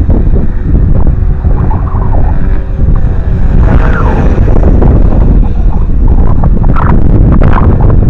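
Strong wind buffeting the microphone with a loud, constant low rumble. A faint whine, likely an electric RC helicopter's motor and rotor, shows through around the middle and shifts in pitch.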